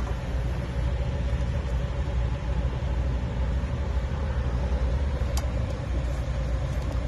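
Steady low rumble of an idling truck engine, with one sharp click about five seconds in as the wiper blade snaps onto its arm.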